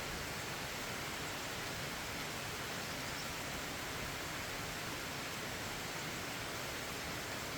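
Steady, unbroken rain falling, an even hiss with no distinct drops or other events standing out.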